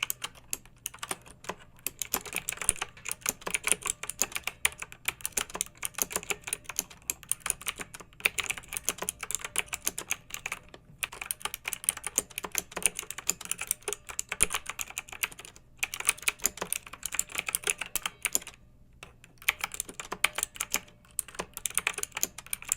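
Clicky mechanical keyboard typing: fast, steady keystrokes in runs, broken by brief pauses and one longer pause of about a second a little past the middle.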